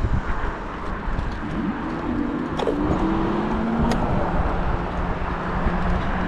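Riding noise from an e-bike ride: wind rumbling on the microphone, with a steady low hum from about a second and a half in that sags slightly in pitch, and two faint clicks.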